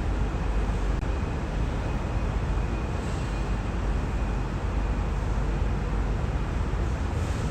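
Yurikamome rubber-tyred automated transit car running, a steady low rumble and hiss.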